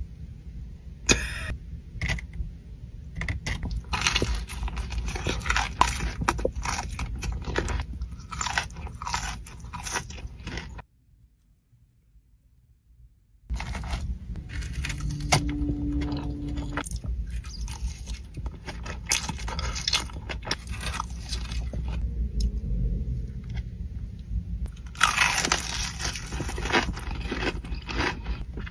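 Close-miked eating: a person biting, crunching and chewing food in quick, irregular crunches. The crunching stops for a couple of seconds about eleven seconds in, then starts again.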